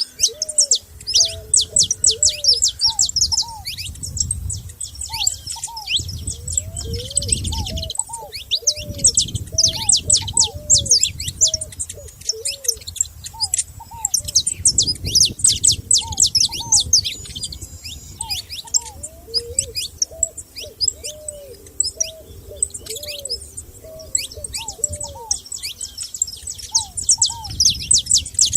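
Several small songbirds singing at once in a dense, overlapping chorus of fast, high chirps and trills. Beneath them a lower-pitched bird note comes again and again in short series. An intermittent low rumble rises and falls underneath.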